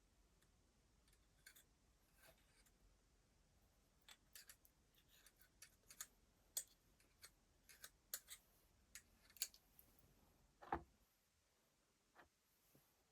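Scattered light clicks and taps of small hard parts being handled, coming thick and fast for several seconds, then one louder knock.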